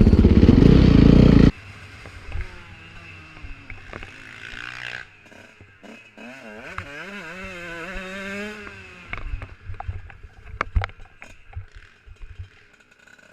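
Motocross bike engine running loud and close, cut off abruptly about a second and a half in. Then a quieter motorcycle engine rising and falling in pitch, with scattered sharp knocks.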